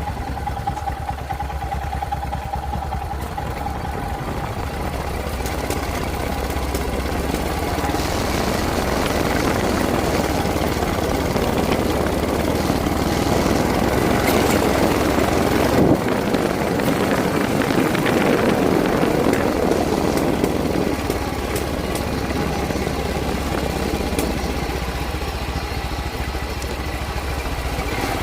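Motorcycle engine running steadily, with a rushing noise that grows louder through the middle and eases off towards the end. A single sharp click comes a little past halfway.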